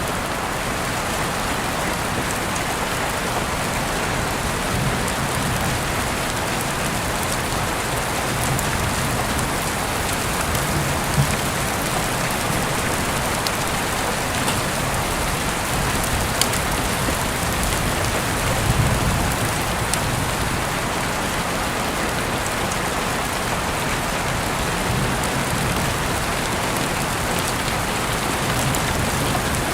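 Heavy rain falling steadily, with scattered sharp drops ticking through it. A low rumble swells briefly a few times.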